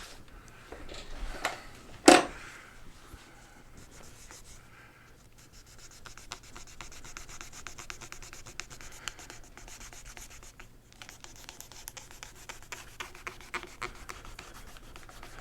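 Rubbing and scrubbing at stubborn paint marks on a mobility scooter armrest, a fast run of fine scratchy strokes. There is a sharp knock about two seconds in.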